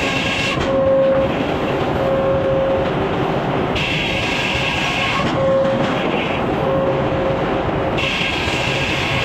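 Sawmill machinery running, a loud, steady, dense mechanical clatter. A higher-pitched band of sound cuts in and out every few seconds over it.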